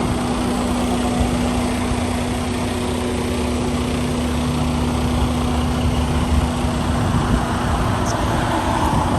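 Semi truck's diesel engine idling steadily, with a constant low hum over it.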